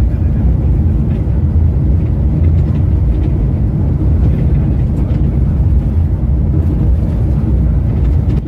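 Scania K410 multi-axle coach on the move: a loud, steady low rumble of engine and road noise.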